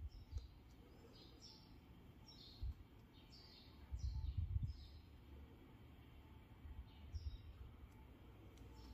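Small birds chirping over and over in short, quick, falling notes. A brief low thud comes about a quarter of the way in, and a louder low rumbling thump follows around the middle.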